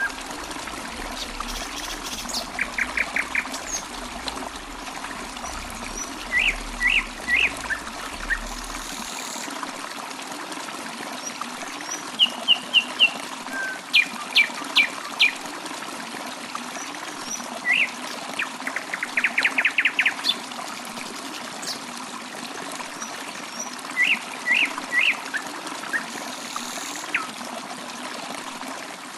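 Water trickling steadily while birds chirp in short groups of quick high notes every few seconds, with one fast run of about ten notes about two-thirds of the way through.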